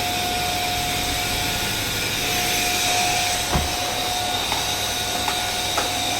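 Vacuum cleaner running steadily, a continuous suction hiss with a high, steady whine, as it is pushed over the floor. There is a knock about halfway through and a few light clicks after it.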